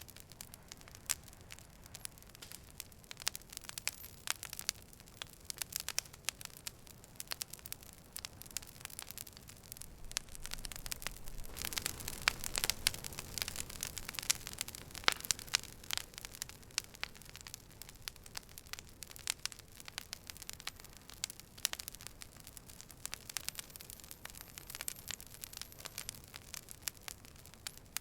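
Campfire crackling: a steady hiss with frequent sharp pops, growing louder and busier for a few seconds around the middle.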